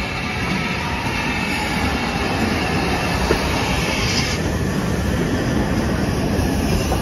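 A heritage railway carriage running through a station, heard from on board: a steady rumble and wheel-on-rail noise that grows a little duller about four seconds in.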